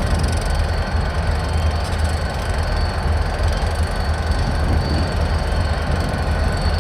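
Freight train moving through a rail yard: a steady low rumble with a faint, steady high tone on top, likely wheel squeal.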